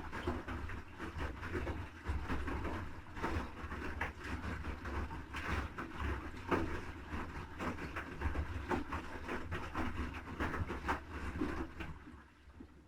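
Haier HW80-B14979 front-loading washing machine tumbling its wash: the drum motor hums low while wet laundry drops and slaps inside with irregular knocks and splashes. The drum stops about twelve seconds in.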